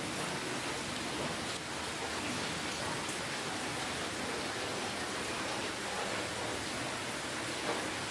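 Steady rainfall: a constant hiss of rain with faint scattered drop ticks, no single sound standing out.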